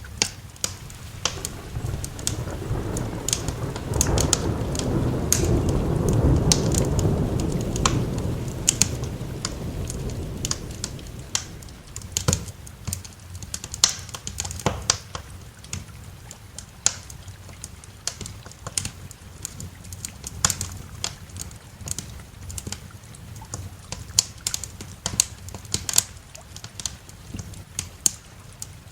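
Crackling wood fire, with sharp, irregular pops and snaps throughout. A long, low roll of thunder builds a second or so in, peaks several seconds later and dies away about halfway through, over a faint hiss of rain.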